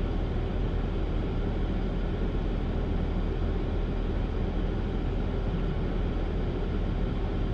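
Plow truck's engine running steadily, a low, even drone with no change in speed.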